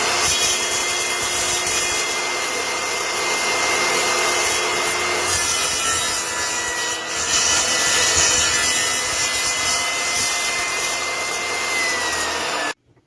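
A woodworking power tool running steadily while working wood, with a thin steady whine. Near the end the whine starts to drop, then the sound cuts off abruptly.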